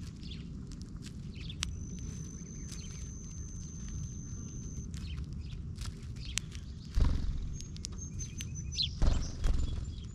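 Small birds chirping around a backyard bird feeder: many short high chirps, and one long steady high note held for about three seconds starting about a second and a half in. A steady low rumble runs underneath, with two louder low rumbles near the end.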